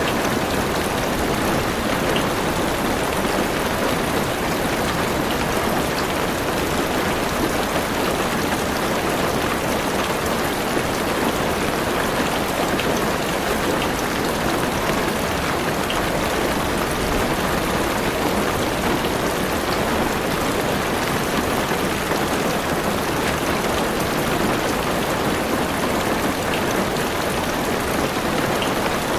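Heavy rain falling steadily on a car's roof and windows, heard from inside the car: a dense, even patter with occasional single drops ticking out.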